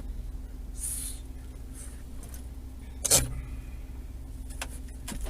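Steady low engine and road rumble heard inside a car, with a short hiss about a second in and a sharp click or knock about three seconds in.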